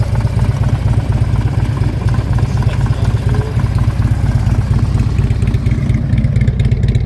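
Harley-Davidson Tri Glide's upgraded 110-cubic-inch S&S V-twin with Woods cams idling steadily through S&S dual chrome exhaust, a loud, even, low rumble.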